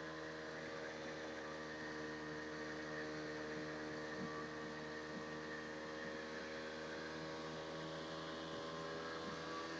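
Motorboat engine running at a steady speed, an even, unchanging hum.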